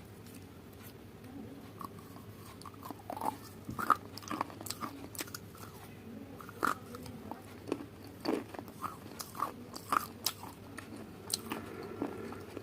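Close-miked mouth sounds of someone biting and chewing crunchy food: irregular crisp crunches, starting about two seconds in.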